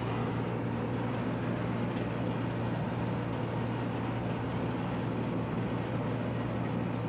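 Rooftop air conditioning unit running steadily after its repair: an even whoosh of fans and airflow over a constant low hum.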